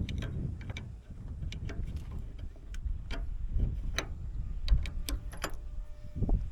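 Scattered light metallic clicks and taps of hand tools and bolts being worked, over a low steady rumble.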